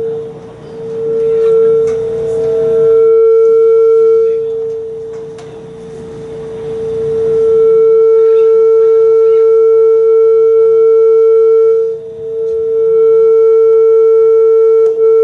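A single steady pitched tone held through the PA system during a band soundcheck, swelling and dipping in loudness several times without changing pitch.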